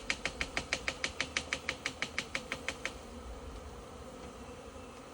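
Rapid, even tapping on the branch holding a honey bee swarm, about six taps a second, stopping about three seconds in. The taps knock the clustered bees loose. Under them the honey bees buzz steadily.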